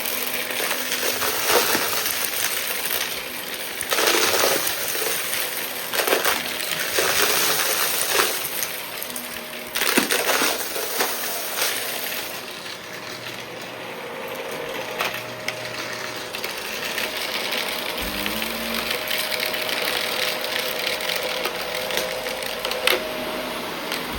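Shark vacuum cleaner running over a small mess, with debris clicking and rattling as it is sucked up, the clatter thickest in the first half.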